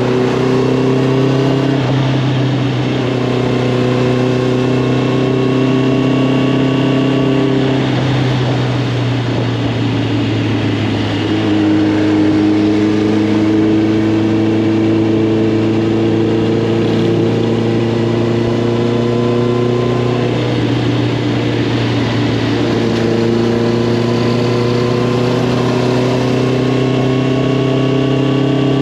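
Honda CB650R's inline-four engine running through an Arrow Thunder full exhaust system while riding. Its note climbs slowly, breaks off about eight seconds in, and then steps up and down in pitch a few more times as the throttle and revs change.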